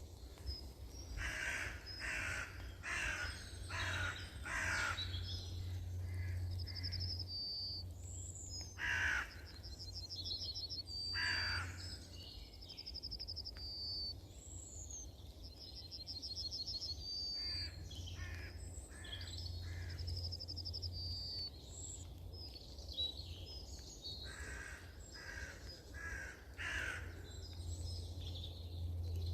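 Wild birds calling: one bird gives loud calls in quick series of several, while a small songbird repeats a short, high trilled phrase about every three seconds, over a steady low hum.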